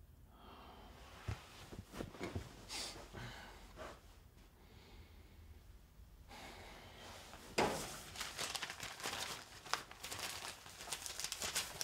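Newspaper pages rustling and crackling as the paper is picked up and opened, starting about two-thirds of the way in. Before that come a few quieter movement sounds on the couch.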